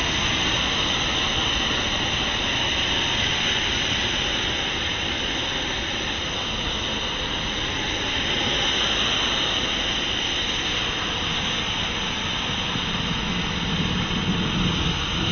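Foam sprayer running steadily, spraying car wash soap onto a car in an even, unbroken hiss.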